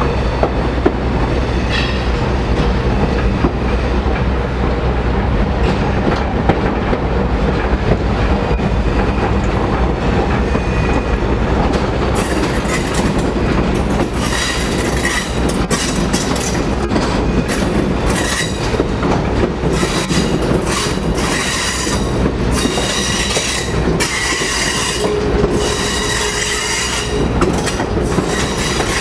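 Train rolling along the track with a steady, heavy rumble. From about halfway on, the wheels squeal in repeated high-pitched spells that come and go.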